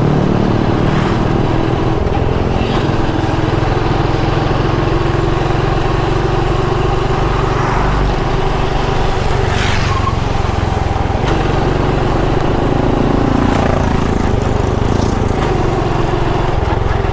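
Motorcycle engine running steadily while riding, with a few brief rushes over the top.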